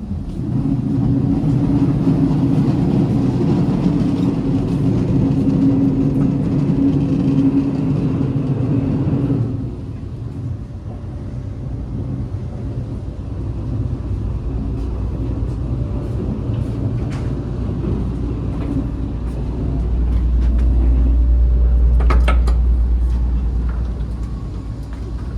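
KTX-Cheongryong high-speed train running at speed: a loud, steady rumble with a droning hum. It drops off suddenly about nine seconds in and swells again into a deeper rumble near the end, with a few clicks.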